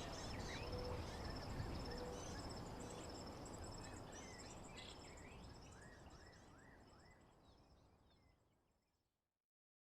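Nature ambience of birds chirping over the steady pulsing trill of insects, fading out to silence near the end.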